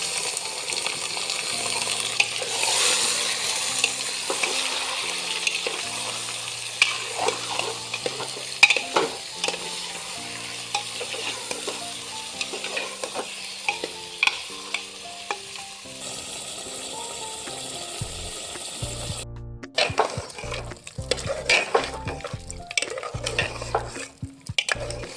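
Food sizzling as it fries in a pan, stirred with clinks and scrapes of a spoon against the pan. The sizzle dies down about 19 seconds in, leaving scattered scraping clicks. Soft background music plays throughout.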